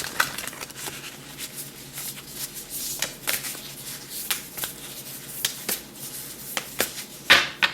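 Oracle cards being shuffled and handled: a run of quick papery clicks and rustles, with a louder snap near the end.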